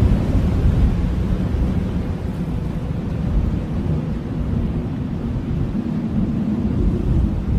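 Blizzard wind blowing in a deep, steady rumble, slightly louder at the start and easing off a little.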